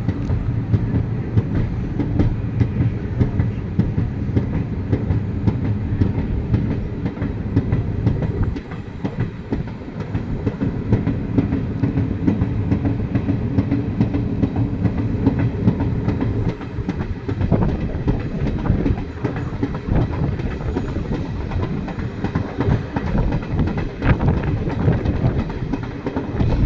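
Train running on the track: a steady rumble with the clatter of wheels over rail joints.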